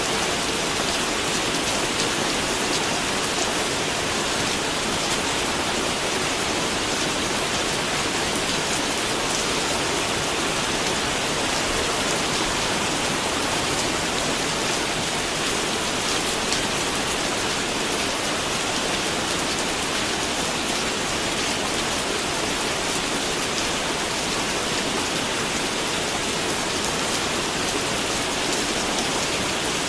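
Steady rain falling, an even hiss with many fine drop patters, unchanging throughout.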